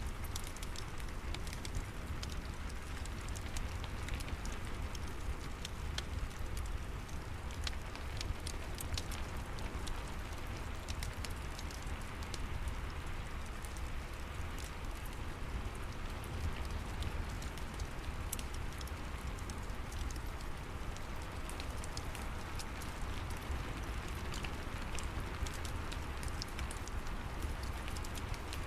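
Steady rain falling, with scattered sharp crackles from a wood fire in a fireplace and a low rumble underneath.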